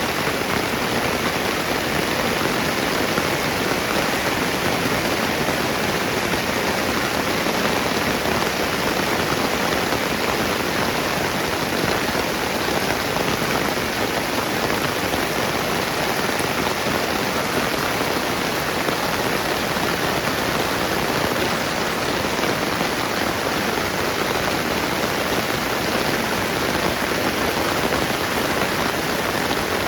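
Steady rain falling, a continuous even hiss with no distinct drops or footsteps standing out.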